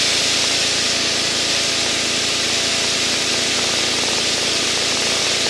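Steady engine and airflow noise inside the cockpit of a light propeller aircraft in flight, an even hiss-like rush that holds at one level.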